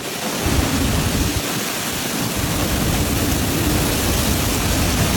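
Heavy storm: a loud, steady hiss of pouring rain and wind, with a rumble underneath.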